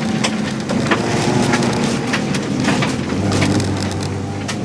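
Rally Subaru's naturally aspirated 2.5-litre flat-four engine running under load, heard from inside the cabin. Over it comes a constant patter of sharp clicks as gravel and mud from the wet, slippery stage pelt the car's underbody.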